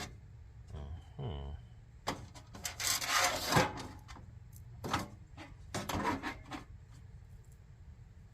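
Scraping, rubbing and knocking as parts are handled and fitted while the heater is reassembled. The longest stretch of rubbing comes about three seconds in, followed by a couple of sharp knocks. A short, falling, pitched sound comes about a second in.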